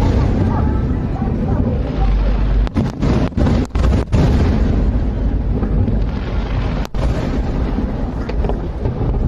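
Aerial fireworks exploding in quick succession, their deep booms running together into a continuous rumble.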